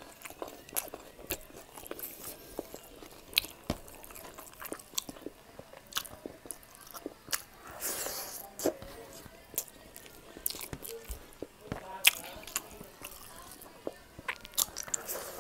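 Close-up eating sounds of a man chewing pork liver steak and rice: many sharp mouth clicks at irregular intervals, with a longer noisy stretch about halfway through.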